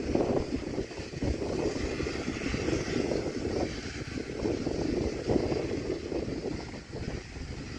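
Steam-hauled train running by: a continuous rumble with uneven surges that eases slightly near the end.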